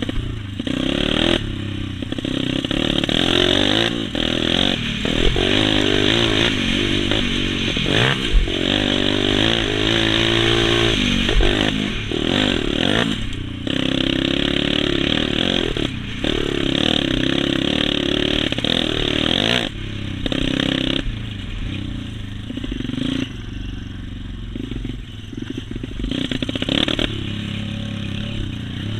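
Motocross dirt bike engine revving up and falling back again and again as it rides the track, with clattering over the top. Louder for the first two thirds, somewhat quieter near the end.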